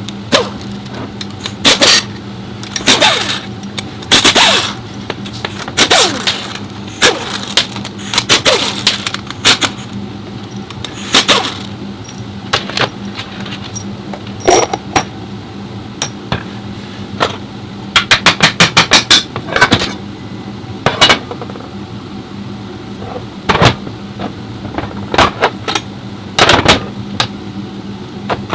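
Irregular metal clanks and knocks of tools and parts being handled over a steady low hum, with a quick rattling run of about ten clicks about two-thirds of the way through.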